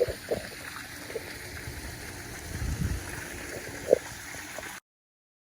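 Steady trickling water noise with a few soft knocks, one sharper knock a little before the sound cuts off suddenly near the end.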